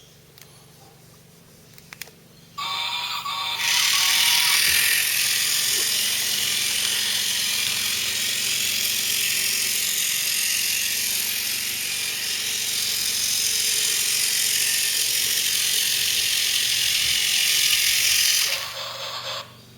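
Battery-powered plastic toy train's electric motor and gears running as the locomotive drives along its track, a steady mechanical whirring rattle. It starts about three seconds in, after a short pitched sound, and stops shortly before the end.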